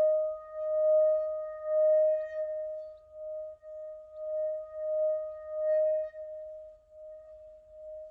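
A single sustained ringing tone at one steady pitch with faint overtones, swelling and fading roughly once a second.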